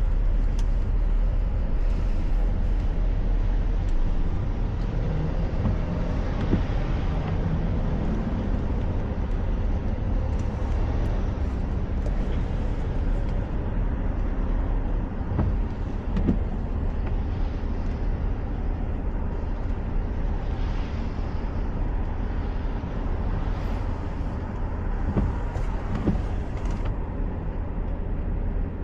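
Steady road noise of a car driving on a wet highway: a continuous low tyre and engine rumble, with a few faint knocks.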